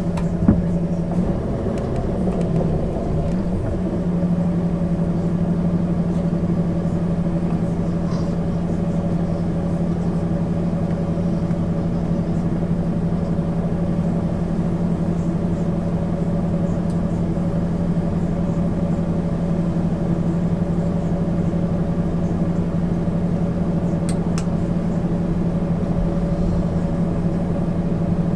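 Diesel engine of a 1999 MAN ÜL 353 intercity bus running at a steady speed, a constant low hum whose pitch does not change, with a couple of faint clicks.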